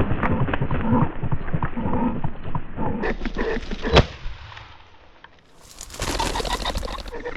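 Rapid crackling rustle, then a single sharp bang about four seconds in, the loudest sound here; a broad rustling hiss returns near the end.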